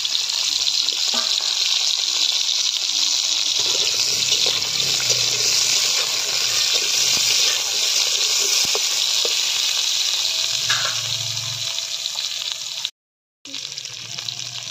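Moringa drumstick pieces frying in hot mustard oil in an iron wok: a steady, loud sizzling hiss with a few faint clicks. It breaks off for about half a second near the end.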